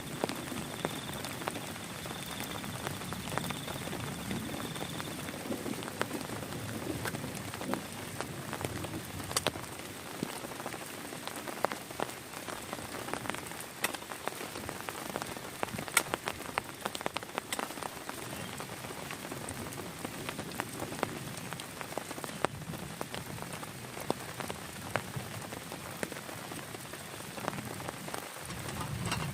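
Heavy rain falling steadily, with many sharp single drops striking close by.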